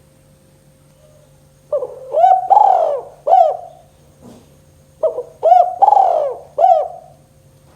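Spotted dove (tekukur) cooing: two phrases of several notes each, the first beginning about two seconds in and the second about five seconds in.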